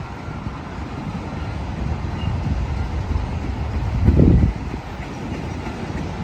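Union Pacific train rumbling as it moves along the track, with a louder low surge about four seconds in.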